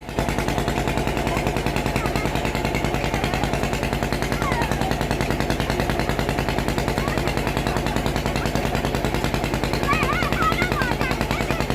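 Single-cylinder diesel engine driving a tube-well pump, running steadily with a rapid, even thumping beat.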